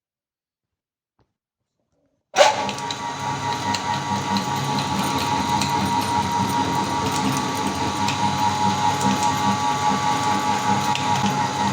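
Silence, then an electric meat grinder's motor starts abruptly about two seconds in and runs steadily, with a held whine over a hum.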